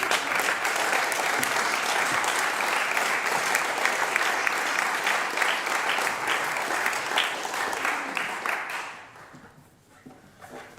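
Audience applauding at the end of a choir song. The clapping starts at once, holds steady, and dies away about nine seconds in.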